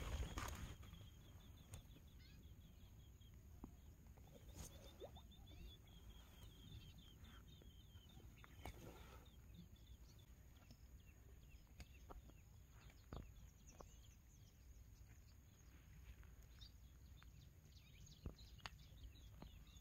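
Near silence: faint outdoor ambience with a bird calling in rapid runs of short high notes, twice in the first several seconds, and a few faint scattered clicks.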